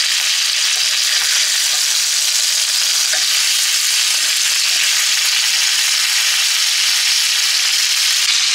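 Chicken frying in oil in a cast iron skillet, a steady sizzle.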